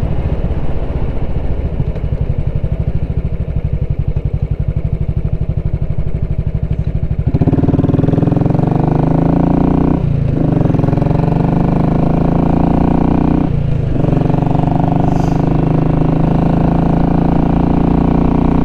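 Royal Enfield Classic 500's single-cylinder engine, exhaust run without its baffle, heard from the saddle while riding. It runs steadily at first, then grows louder a little over a third of the way in as it pulls harder, broken twice by short dips a few seconds apart, like gear changes.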